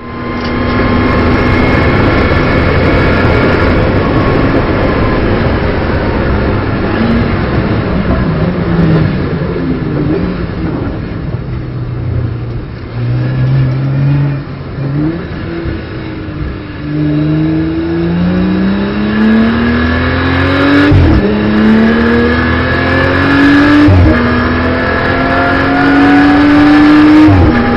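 In-car sound of a BMW M240i Racing Cup car's turbocharged straight-six at race pace. In the second half the engine accelerates through the gears: its pitch climbs steadily and then drops sharply at each of three upshifts near the end.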